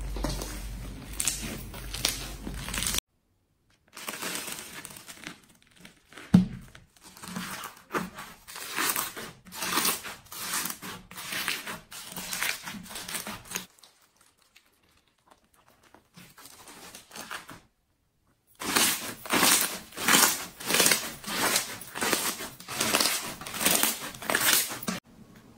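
Slime being squeezed and pressed by hand, giving a run of short crinkly, squishy strokes. Several short clips are broken by brief silences, and one sharp pop about six seconds in is the loudest sound.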